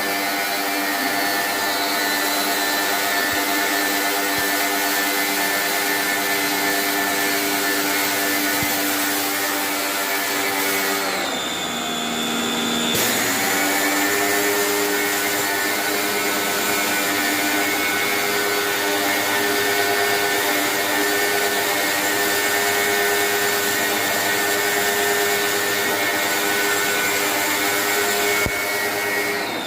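Motor-driven air-conditioning service machinery running steadily, with a whining hum of several pitches over a hiss. The sound changes briefly about eleven seconds in, then settles back.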